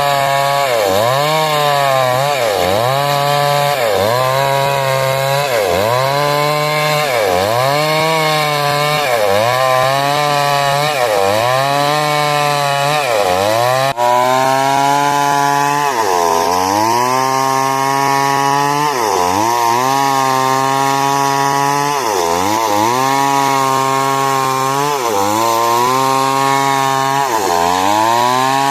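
A 382 two-stroke chainsaw running at high revs while cutting wood, its pitch sagging and recovering over and over: about once a second in the first half, and at longer intervals of a few seconds in the second half.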